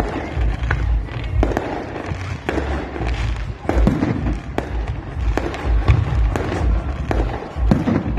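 Fireworks display: a rapid, irregular series of sharp bangs and crackles from bursting shells, several a second, over deep repeated booms.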